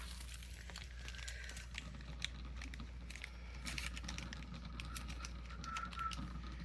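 Faint, irregular light clicks and taps of small objects and packaging being handled, over a steady low hum.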